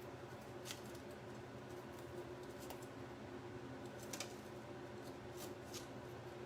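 A few faint, sharp clicks of kitchen handling over a steady low hum of room tone.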